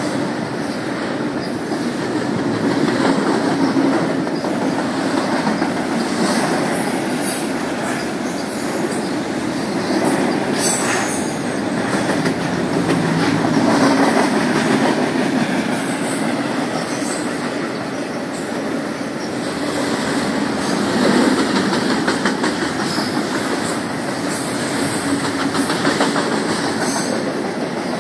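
Intermodal freight train cars rolling past on the rails: a continuous rumble that swells and fades, with wheels clicking over rail joints and occasional wheel squeal.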